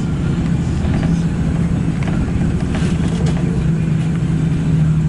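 A car driving at a steady speed: a constant low engine drone with road rumble beneath it, and a few faint ticks about halfway through.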